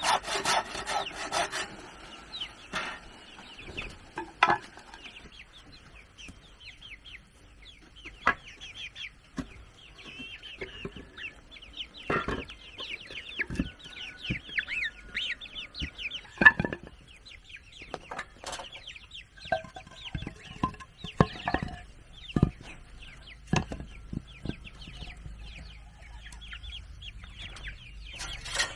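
Hand saw cutting wood, stopping under two seconds in; then chickens clucking and peeping with many short, quick calls, among scattered sharp wooden knocks and taps.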